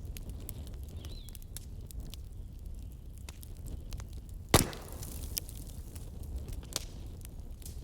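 Bonfire of burning wood crackling with scattered small snaps over a low steady rumble, and one loud sharp pop about halfway through.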